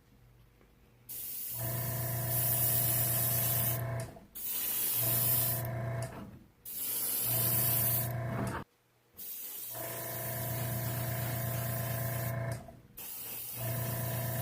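Airbrush spraying black Stynylrez surface primer in five long bursts of hissing air, each starting and stopping with the trigger, with a steady motor hum under each burst.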